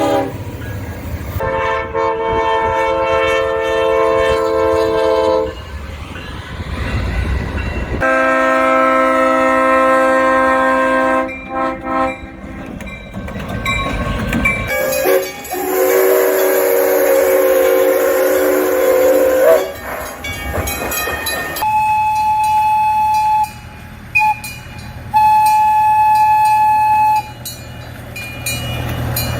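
Diesel locomotive air horns sounding a series of long blasts, each a multi-note chord, with the chord changing from one blast to the next. Between the blasts comes train rumble, and near the end a single, higher tone sounds in short breaks.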